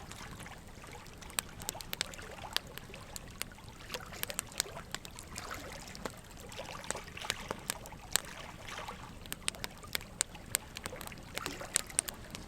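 Wood fire in a fire pit crackling: irregular sharp pops and snaps over a steady soft hiss.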